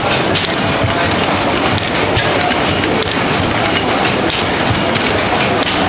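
Old stationary internal-combustion engines running, a dense rhythmic clatter with low exhaust thumps and a sharp crack every second or so.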